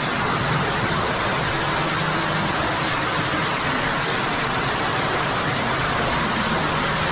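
Rushing water in a limestone cave, a steady roar from a stream or waterfall running high after several days of rain.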